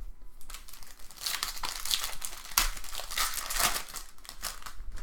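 Trading-card pack wrapper crinkling and tearing as it is handled and opened: a dense run of quick crackles, loudest in the middle.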